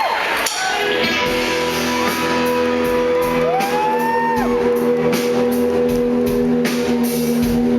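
Live band music in a large hall: held guitar chords ring steadily, a shout rises and falls over them a few seconds in, and a steady ticking beat comes in at about five seconds.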